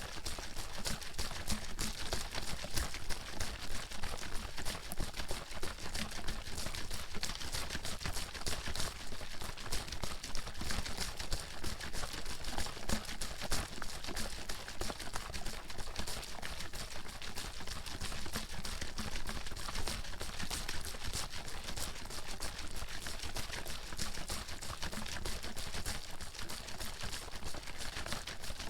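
Water sloshing and knocking inside a bottle being shaken hard and fast, without a break.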